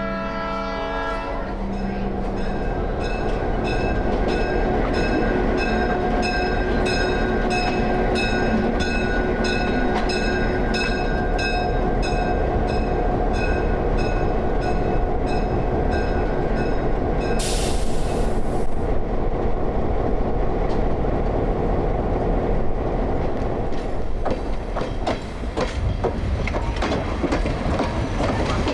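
A train horn sounding its chord briefly at the start, then the train rolling steadily with the locomotive running and the wheels clicking in an even rhythm over the rail joints. A short hiss, like air being released, about two-thirds of the way through.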